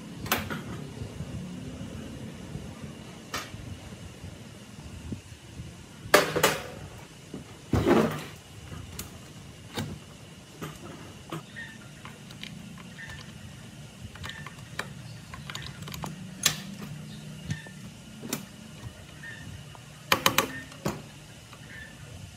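Scattered clicks and knocks of tools and parts being handled during the dismantling of a backpack blower, the loudest a few sharp knocks and a quick run of clicks near the end, over a faint steady hum.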